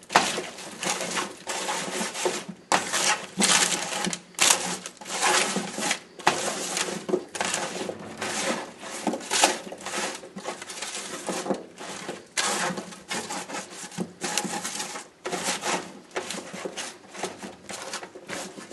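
Seasoned raw vegetable pieces being tossed and stirred with a utensil on a baking pan, giving a continuous run of irregular clattering and scraping.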